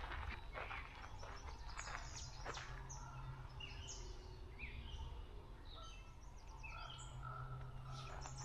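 Several songbirds chirping and singing: many short, high notes that fall in pitch, with a few quick trills, over a steady low rumble.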